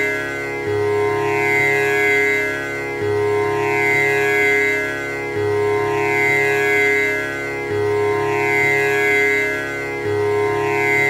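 Tanpura drone: its strings plucked in an unbroken repeating cycle that comes round about every two and a half seconds, each cycle opening on a low note, with the rich overtones of the strings sweeping and shimmering above a steady tone.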